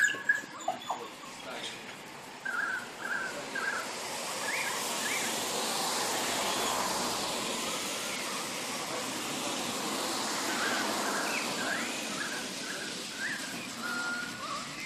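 Small birds chirping in short repeated notes, twice. Under them a broad rushing noise swells over a few seconds and fades again. There is a sharp click right at the start.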